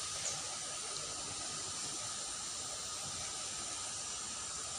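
Steady outdoor background hiss with a faint, steady high-pitched note running through it.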